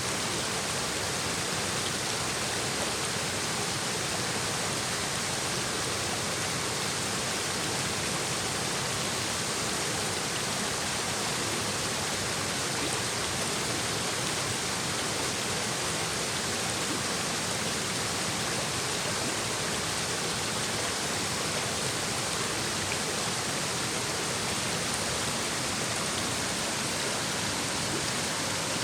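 Shallow mountain stream babbling over rocks, a steady, even rush of water with no change in level.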